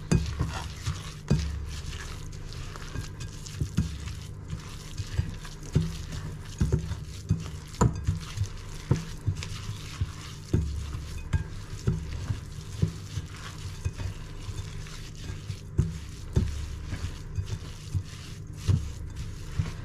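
A utensil stirring a thick crumble mixture of flour, sugar, oats and melted butter in a mixing bowl: irregular scraping with repeated knocks against the bowl.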